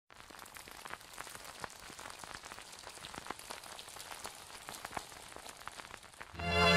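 Rain falling: a soft steady hiss with many separate drops ticking. Music comes in loudly near the end.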